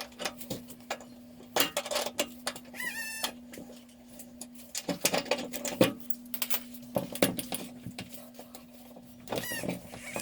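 Irregular metal clicks and knocks of a wrench loosening and drawing out the transport bolts on the back of a new washing machine, with a short squeak about three seconds in. A steady low hum runs underneath.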